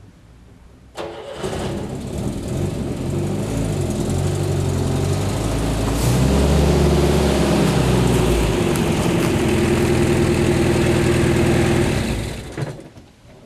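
A car engine starts about a second in and runs for about eleven seconds with its revs rising and falling, then stops near the end.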